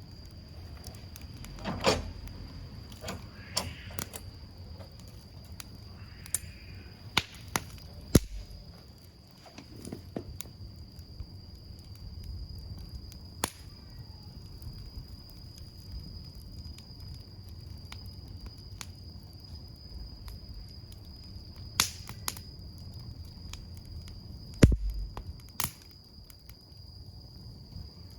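Wood campfire crackling, with scattered sharp pops and snaps at uneven intervals; the loudest pop comes with a low thud near the end. A steady high insect trill runs underneath throughout.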